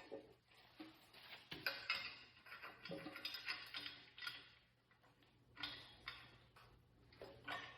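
Faint, irregular metallic clicks and clinks of bolts and hand tools as an engine is bolted onto an engine stand, with short quiet gaps between.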